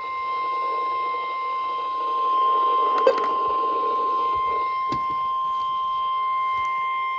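NOAA Weather Radio 1050 Hz warning alarm tone: one long, steady high-pitched tone that signals an urgent warning, here a tornado warning, is about to be read. Two brief clicks sound about three and five seconds in.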